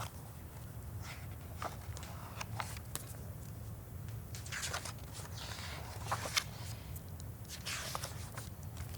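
Faint rustles and soft taps of a picture book being handled and its pages turned, a few scattered across the pause, over a steady low hum.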